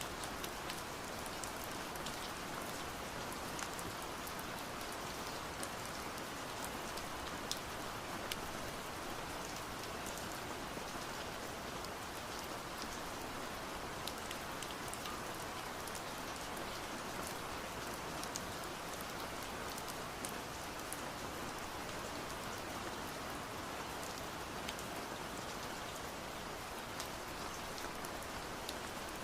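Steady rain with many scattered sharp taps of drops hitting window glass.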